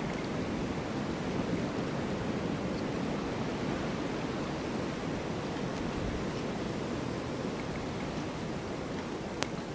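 Snowstorm wind blowing steadily as an even, low rushing noise, with one sharp click near the end.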